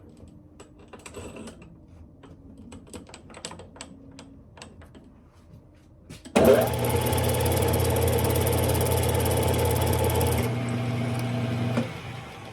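A few faint clicks, then about halfway through a Smithy lathe's motor starts abruptly and runs steadily for about four seconds before it is switched off and spins down.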